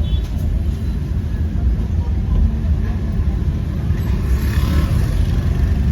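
Steady low rumble of busy street traffic, with a brief swell of higher noise about four and a half seconds in.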